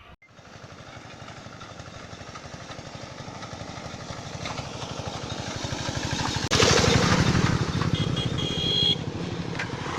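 Small vehicle engine running with a rapid, even pulse, growing steadily louder and jumping louder about six and a half seconds in.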